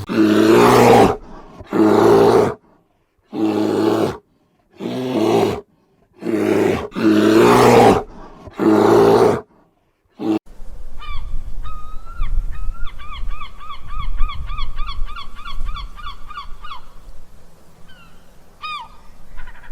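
A large animal calls loudly seven times, each call a raspy honk of about a second with short gaps between. After an abrupt change about ten seconds in, a small bird gives a fast high trill of about five notes a second over a low rumbling background, followed by a few single chirps near the end.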